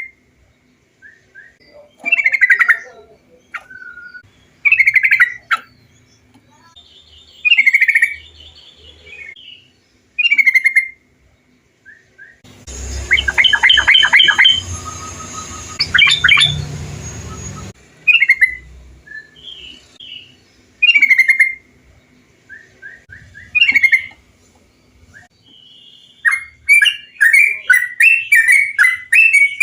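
Trucukan (bulbul) song: short bubbly phrases repeated every two to three seconds. In the middle comes a noisier stretch of rapid notes, and near the end a fast, unbroken run of chattering phrases.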